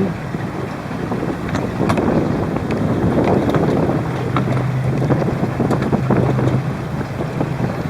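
Wind buffeting the microphone aboard a boat, with rough water noise and a steady low hum through the second half.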